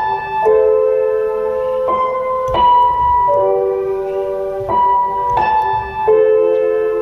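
Slow piano-like keyboard music: sustained chords and single notes that change about every second, without singing.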